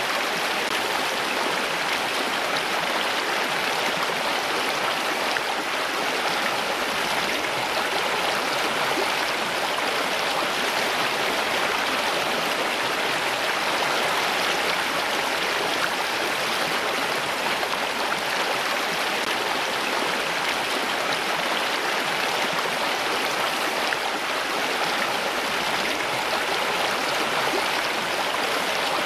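Running water with a steady, even rush, like a stream or small waterfall, and no single splash or drop standing out.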